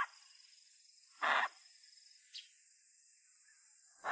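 Insects chirring steadily and high-pitched, with a short louder sound just over a second in and brief ones at the start and end.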